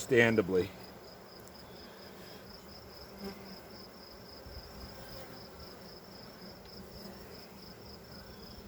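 Honey bees buzzing around an opened hive, stirred up and annoyed by the inspection. A steady, evenly pulsing high insect trill runs behind it.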